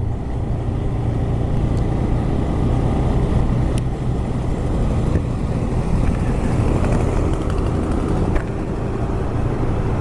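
TVS Raider 125's single-cylinder engine running at a steady pace while the motorcycle is ridden, with road and air noise mixed in.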